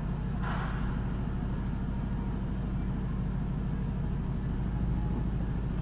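2020 Ford Mustang GT's 5.0-litre Coyote V8 running steadily at low revs.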